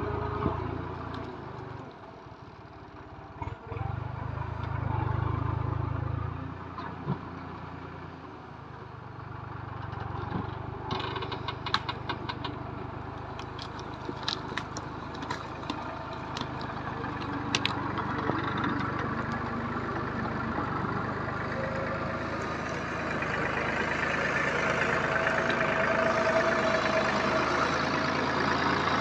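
Tractor engine running steadily, getting louder over the last third, with scattered sharp clicks and knocks in the middle.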